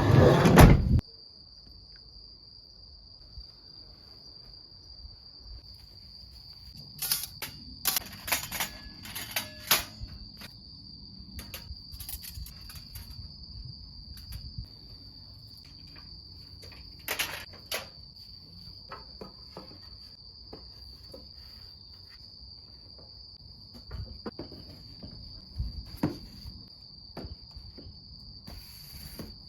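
Crickets or other insects trilling steadily at one high pitch. A loud noisy burst comes in the first second, and scattered clicks and knocks follow through the rest.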